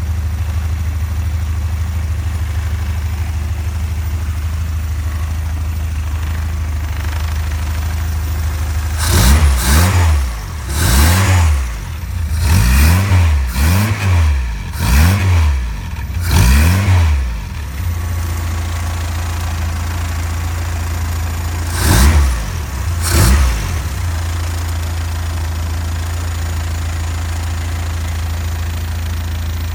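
Ford 100E sidevalve four-cylinder engine of a 1954 Dellow Mark 2 trials car idling steadily, then blipped up and down about five times in quick succession. After a short idle it is blipped twice more before settling back to idle.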